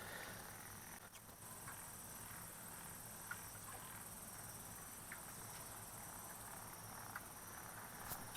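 Faint, steady chorus of night insects, with a few soft ticks.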